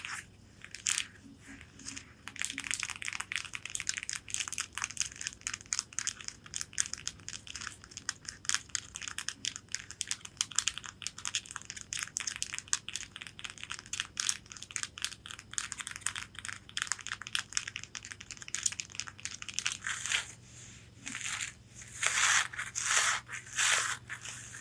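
Long fingernails tapping and scratching rapidly on corset fabric, in dense quick clicks. Near the end, after a brief pause, come louder, longer scratching strokes.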